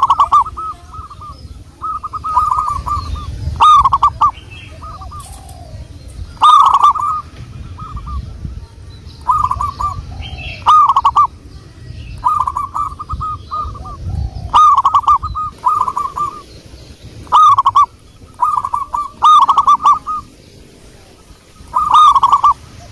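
Zebra dove (perkutut) singing: short phrases of quick cooing notes, repeated every second or two.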